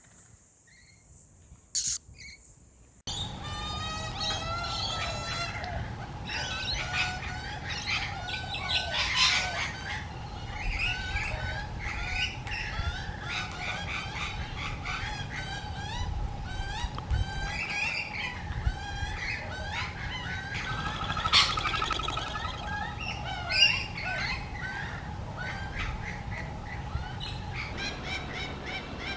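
Baby birds begging for food: rapid, repeated chirps and squawks that start about three seconds in and keep going, over a steady tone.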